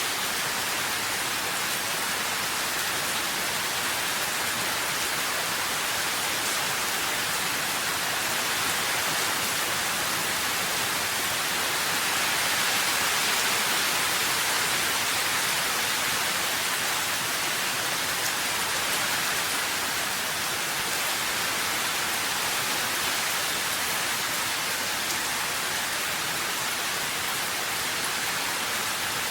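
Steady heavy rain falling, a dense even hiss with no separate drops standing out, swelling slightly about halfway through.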